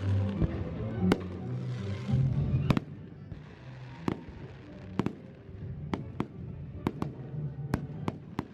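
Fireworks going off in sharp, scattered bangs and cracks, about a dozen in all, over holiday music. The music drops away about three seconds in, leaving the single bangs.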